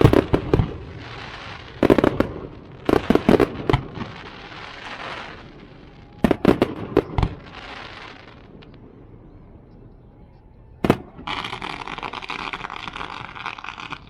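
Fireworks going off in quick clusters of sharp bangs with crackle. The clusters come about every one to three seconds, then there is a lull and a single bang near the end. After that the sound abruptly changes to a steady hiss.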